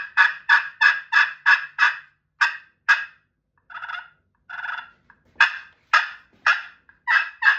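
A purple-slate-over-glass pot turkey call in a wormy chestnut pot, scratched with a striker, playing a run of turkey calls. A fast string of short, sharp notes, about three a second, breaks off after about three seconds. Two longer, softer notes follow, then the sharp notes come back and speed up into another quick string near the end.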